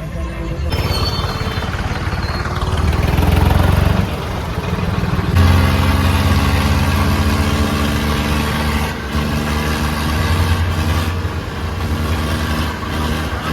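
Tractor engine running loudly with a deep low rumble, its sound shifting abruptly about a second in and again around five seconds in.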